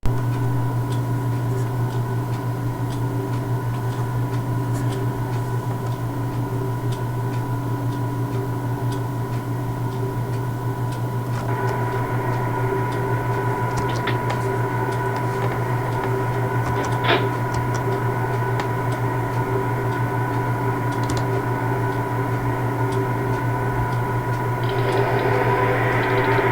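Steady electrical and mechanical hum of trains standing at a station, with several steady tones and faint ticking about once a second. The hum grows fuller about a third of the way in and again near the end, and a single sharper click comes a little past the middle.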